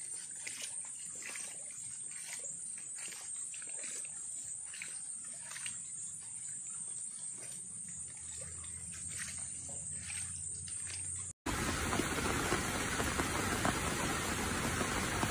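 Scattered small splashes and drips of water over a soft wet background. About eleven seconds in, an abrupt cut brings a much louder, steady hiss of heavy rain.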